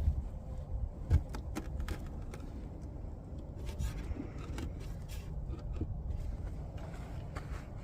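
Scrapes, clicks and knocks of handling at a beehive, over a steady low rumble, with one louder knock about a second in.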